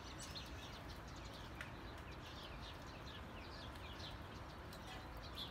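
Faint bird chirps: a run of short, high, quick notes over a low hiss.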